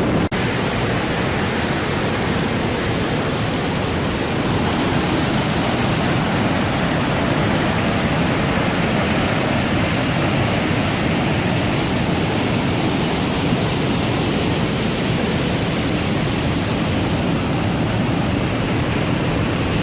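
River waterfall: a loud, steady rush of falling water.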